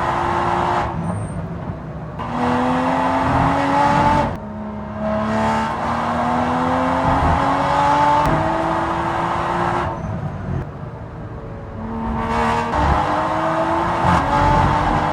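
Toyota GR Supra GT4 race car's 3.0-litre turbocharged BMW B58 inline-six heard from onboard, pulling hard with its pitch climbing and dropping at quick upshifts. It goes off throttle about a second in and again about ten seconds in, then accelerates once more.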